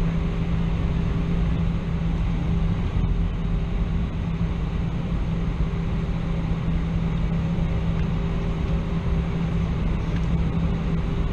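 Steady cabin noise inside an Airbus A320: an even rush of engine and airflow noise with a constant low hum and a fainter higher hum above it.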